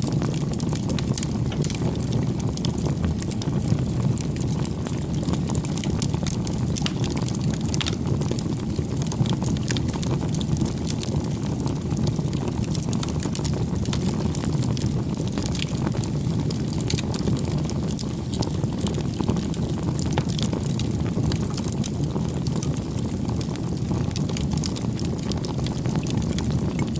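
Campfire burning: a steady low rush of flames with frequent small crackles and pops from the burning wood.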